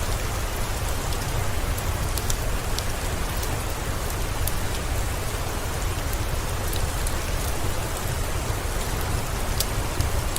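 Steady rain falling, with a low rumble underneath and scattered faint sharp ticks, the crackle of a wood fire mixed in with the rain.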